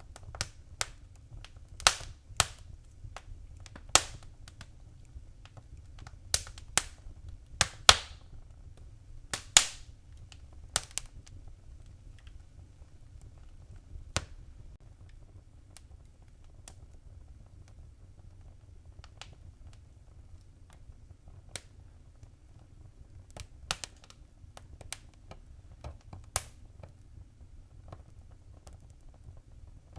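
Wood fire crackling in a fireplace: irregular sharp pops and snaps over a low, steady rumble of the flames. The pops come thickly in the first ten seconds, then thin out, with a few more near the end.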